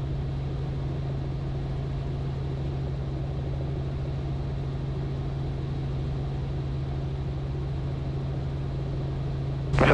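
Robinson R44 helicopter in cruise, heard from inside the cabin: a steady, unchanging drone of engine and rotors with a constant low hum.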